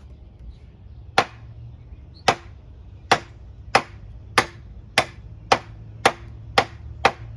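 Survival knife chopping, about ten sharp strikes that come faster as it goes, from about one a second to nearly two a second.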